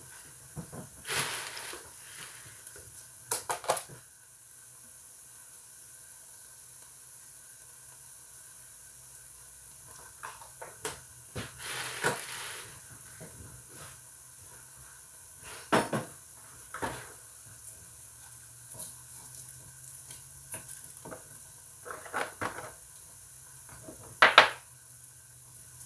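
Ground meat and vegetables sizzling steadily in a large frying pan, with scattered knocks and clanks of utensils and dishes, the loudest a few seconds in and near the end.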